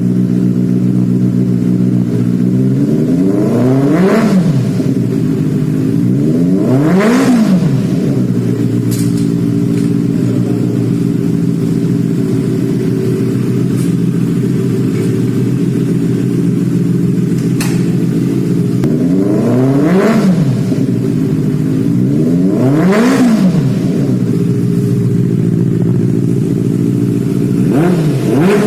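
Benelli TNT 600i inline-four motorcycle engine with an IXIL X55 aftermarket exhaust idling steadily, blipped on the throttle twice, then after a long idle blipped twice more, each rev rising and falling back within about a second.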